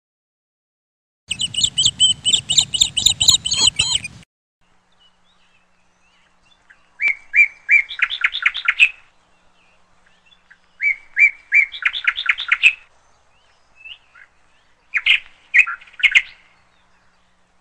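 A songbird singing: first a burst of rapid high chirping with low noise behind it, then three short song phrases about four seconds apart, each a few clear notes running into a fast trill.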